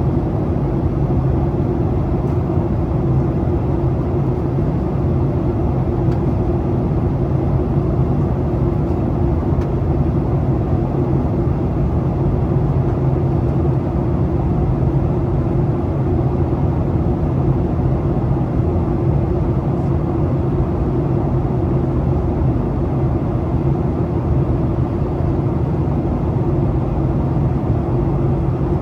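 Steady cabin drone of a Boeing 737 in flight: jet engine hum and rushing airflow heard from inside the passenger cabin, with a constant low hum throughout.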